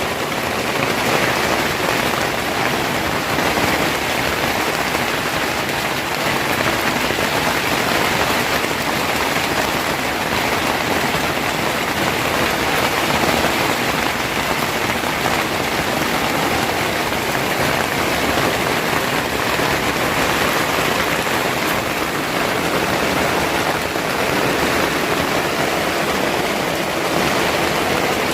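Steady rain, a dense even hiss of drops falling on surfaces, unchanging in strength.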